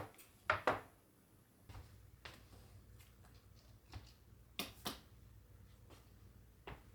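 Irregular light knocks and clicks, the loudest a quick pair about half a second in and another pair near five seconds, over a faint low hum that starts about two seconds in.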